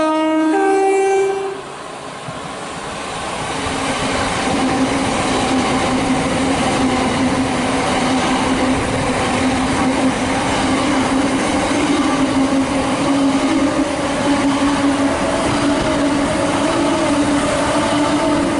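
A Southern multiple-unit train sounds its two-tone horn, a lower note then a higher one, for about a second and a half. It then runs past close by with a steady hum over the rushing of wheels on rail.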